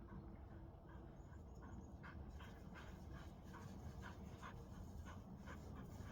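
Australian Shepherd dog panting, quick short breaths about two or three a second; the dog is tired from climbing.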